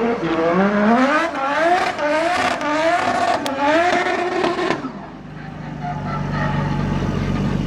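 A car engine revving hard in repeated quick rising surges, typical of a car doing a burnout or drifting, that drops to a steady low drone about five seconds in.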